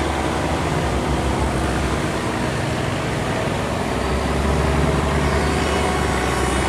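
Boat engines running together in a steady drone, growing slightly louder about two-thirds of the way through.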